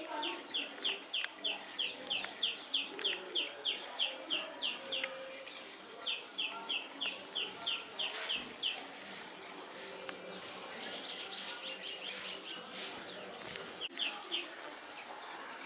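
A bird calling: rapid runs of short, high chirps, about four or five a second, in two long bouts and a brief one near the end.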